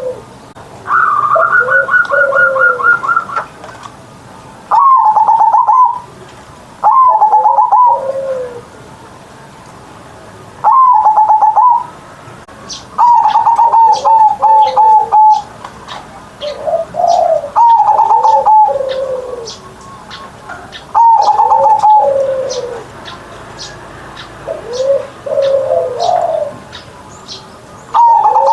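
Zebra dove (perkutut) cooing its full song over and over: each phrase opens with a quick rattling note and falls into lower, drawn-out coos, repeated about every two to three seconds. Faint high chirps are heard from about halfway through.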